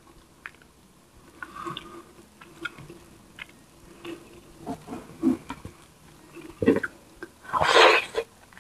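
Close-miked eating sounds from a person chewing tilapia and rice: soft wet chewing, lip smacks and small clicks. Near the end comes a louder noisy rush lasting about half a second.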